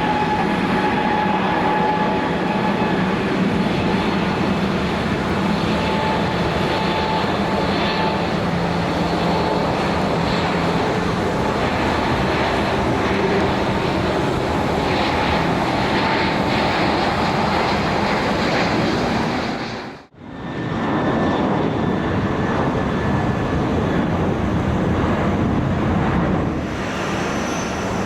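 Boeing 777 freighter's GE90 turbofan jet engines running at high thrust: a loud, steady jet noise with a high whine that rises slightly at first and holds. About twenty seconds in the sound drops out for a moment, then the jet noise resumes.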